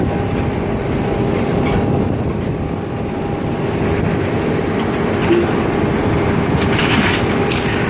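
Heavy demolition machine running steadily with a constant engine drone and hum as it tears down a wooden building, with a few brief crunching sounds near the end.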